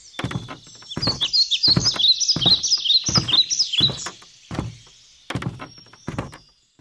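A small songbird singing a fast run of repeated high, hooked chirps, over a series of dull thumps about twice a second that thin out and fade near the end.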